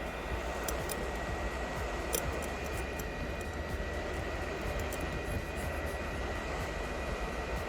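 Steady whooshing hiss of a small electric blower fan with a faint constant whine, and a scattering of light ticks from a tool scraping glue off a phone's metal frame.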